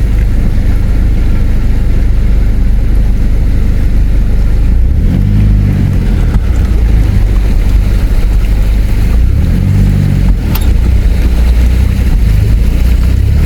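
A 4WD's engine working through a river crossing: a steady, loud low rumble, with the revs rising and falling twice, about five and ten seconds in.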